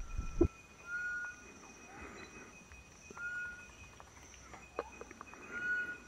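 Forest ambience: a bird whistles a short clear note three times, a couple of seconds apart, over a steady high insect drone. A brief low thump comes at the very start.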